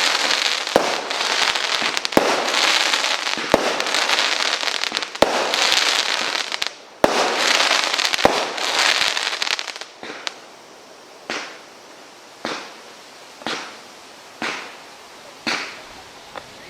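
Fireworks firing: about ten seconds of dense crackling with a sharp bang roughly every second and a half. Then comes a run of single bangs about once a second, each trailing off.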